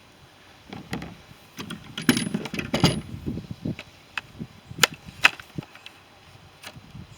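Hard plastic parts handled and knocked together: irregular clicks and knocks, with a patch of scraping and rattling about two to three seconds in.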